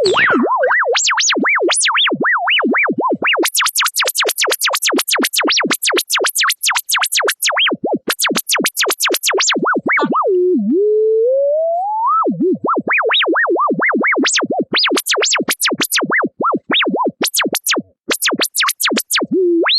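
A pure sine tone from an online tone generator, swept rapidly up and down in pitch in fast swoops, many of them shooting up to a shrill, very high whistle. About halfway through it slows into a low tone that glides steadily upward, then the fast swoops resume.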